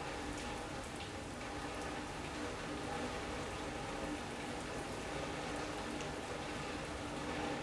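Steady rain falling on a sunroom's roof and windows, with scattered drops ticking, under a faint steady hum.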